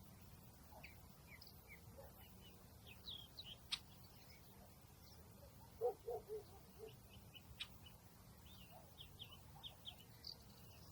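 Faint outdoor ambience with small birds chirping in short, scattered notes. A quick run of lower calls about six seconds in is the loudest part, and two sharp clicks stand out.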